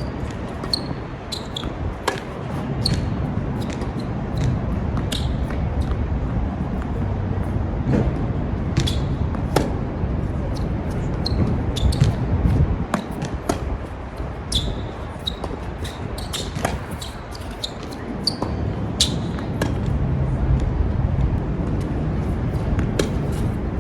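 A tennis rally: a string of sharp racket-on-ball hits and ball bounces, some with a short ringing ping from the strings. Strong wind rumbles on the microphone underneath.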